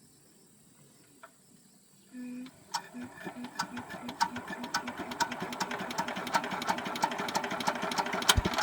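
Small tractor's diesel engine turning over for about seven seconds with sharp rhythmic knocking, a few knocks a second and growing denser, then stopping; a short low tone sounds at the start and at the end. The engine is not running right: the mechanic suspects a leaking gasket.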